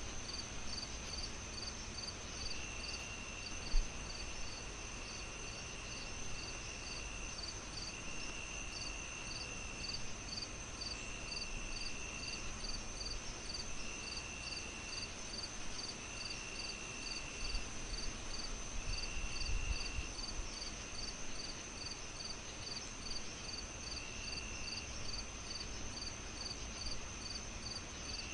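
Crickets chirping steadily, about three chirps a second over a constant high trill, with another insect trilling in stretches of about a second with short gaps. Underneath runs a low rumbling haze, with a single soft thump about four seconds in.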